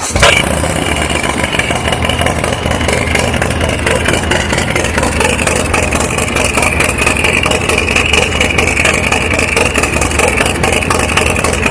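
Harley-Davidson Street Glide's freshly built Stage 4, 131-cubic-inch Milwaukee-Eight V-twin running after being fired up, with a sharp rise in level right at the start and then a steady, loud idle.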